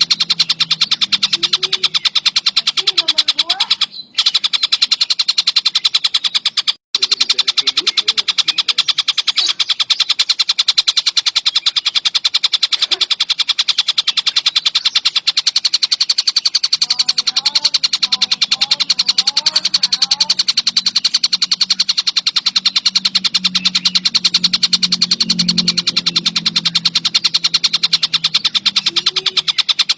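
Tengkek buto bird singing vigorously: a loud, continuous rapid chatter of very fast repeated notes, broken only by two brief gaps about four and seven seconds in.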